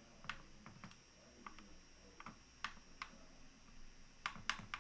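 Faint, irregular clicks of a computer keyboard, about ten taps spread unevenly, a small cluster near the end.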